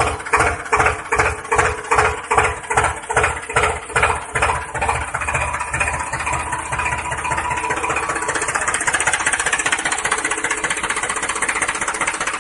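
Tractor engine chugging in even pulses, about three to four a second, which run together into a steady, faster running about five seconds in.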